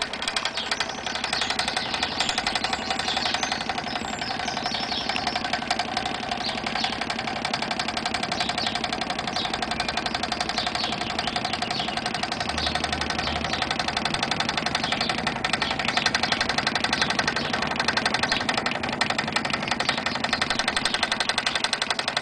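Prototype free-piston Stirling engine running steadily, its displacer and power piston reciprocating with a rapid, even mechanical knock.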